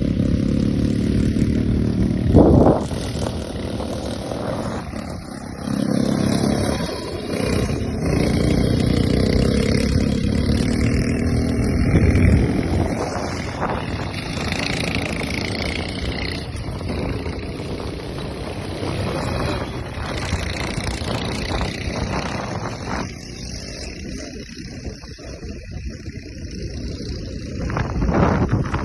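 ATV quad bike engine running during a ride, its pitch rising and falling as the throttle changes.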